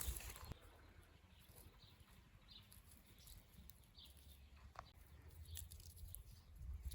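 Near silence: quiet outdoor ambience with a few faint, scattered bird chirps and a low rumble.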